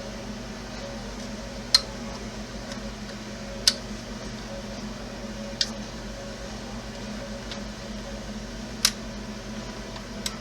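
Five sharp little clicks spread unevenly through, from small parts being handled and fitted by hand, over a steady low hum like a fan.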